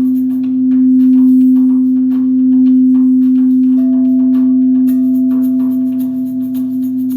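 Singing bowl sounding one strong, steady, pure low tone, with a fainter higher tone joining about halfway through. Quick light ticks from hand percussion run over it.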